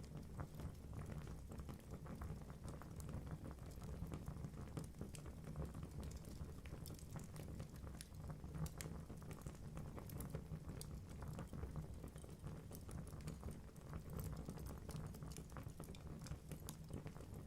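Wood fire burning in a fireplace: logs crackling and popping in a steady stream of small sharp clicks over a low rumble of flames.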